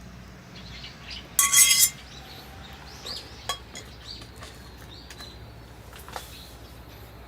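Cookware clinking: one loud ringing clink about a second and a half in, then a few short sharp clicks.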